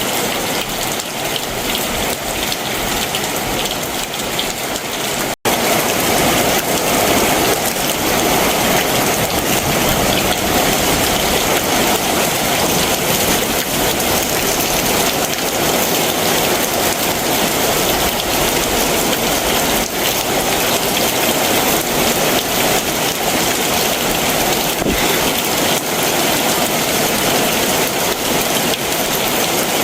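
Heavy summer monsoon rain falling steadily in a dense downpour. The sound drops out for an instant about five seconds in, then carries on a little louder.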